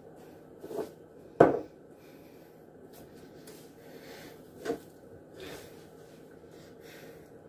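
A few short knocks and clunks of things being handled and set down around a kitchen, the loudest about a second and a half in, with smaller ones near the start and after the middle.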